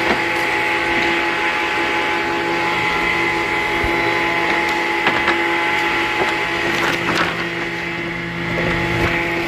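Circular saw in a woodworking shop running steadily with a steady hum, with a few short knocks about halfway through.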